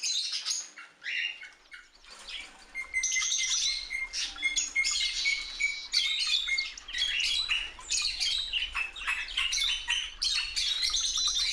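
A flock of budgerigars chattering, many birds chirping and warbling over one another, with short squawks.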